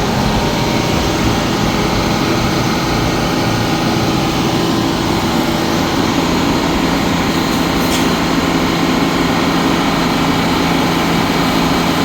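Amertek fire truck engine running steadily at raised throttle, driving its fire pump. A brief tick sounds about eight seconds in.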